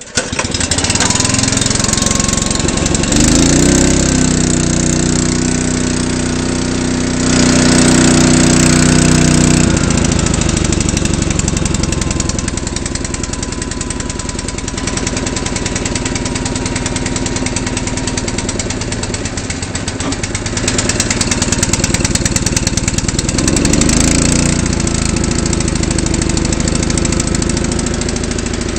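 Honda HS-55 snowblower's single-cylinder four-stroke engine catching on a cold start and running. Its speed rises a few seconds in, holds higher for several seconds, then settles lower, with another brief rise near the end.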